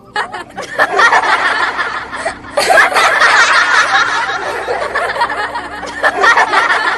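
A group of young voices laughing and giggling together, with chatter, several at once.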